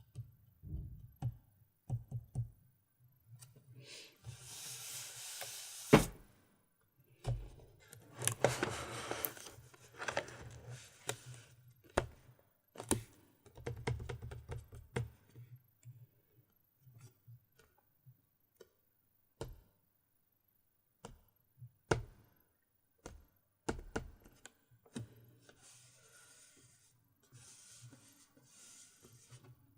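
Close-miked handling of a GoPro Hero 4 Silver's packaging: scattered taps, clicks and knocks with stretches of rustling, the loudest a sharp click about six seconds in.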